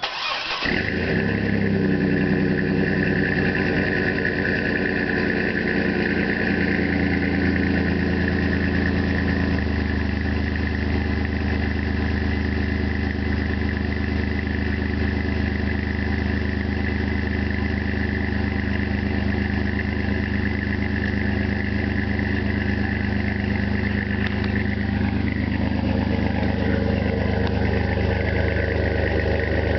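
A 4.3-litre Vortec V6 in a 2003 Chevy S10 ZR2 starts up through a Flowmaster 40 Series dual exhaust with a high-flow cat and no resonator, then runs at a steady idle. The idle is high at first and drops to a lower, steady idle about ten seconds in, as it does on a cold start.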